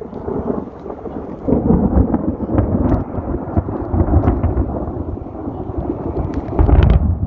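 Loud thunder rolling and rumbling with sharp crackles. It swells about a second and a half in, peaks again near the end, then falls away.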